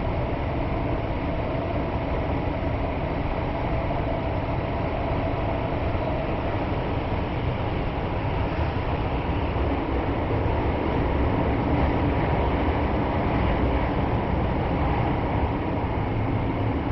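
Kyoto Municipal Subway Karasuma Line train running in the tunnel between stations, heard from inside the car: a steady wheel-and-rail rumble with a faint even whine, growing a little louder past the middle.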